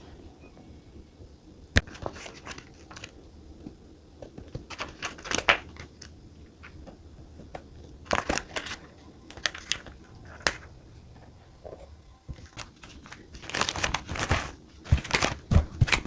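Paper and sticker sheets being handled on a desk: irregular crinkling and rustling with small sharp clicks and taps, busier near the end.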